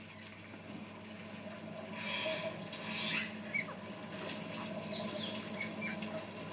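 Pet parrot giving short, high chirps and squeaks, with rustling in between.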